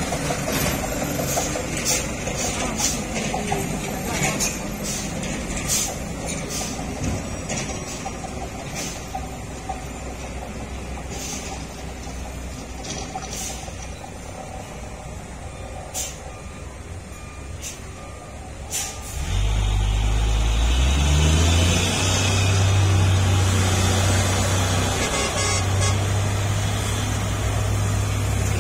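Heavy diesel truck traffic with repeated short sharp hisses or clicks; about two-thirds of the way through, a loud, low diesel truck engine comes in close, its pitch rising briefly as it revs, then running steadily under load.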